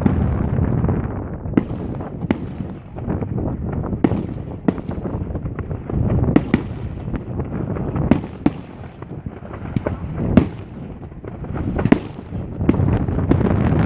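Fireworks display: a series of sharp bangs from bursting fireworks, roughly one a second at uneven spacing, with a continuous low rumble between them.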